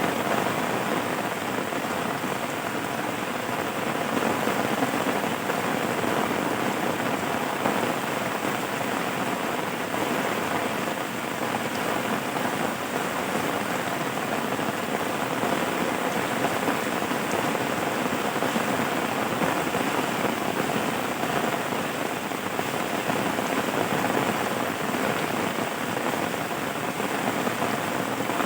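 Steady rain falling, a dense even patter of drops with no letup and no thunder.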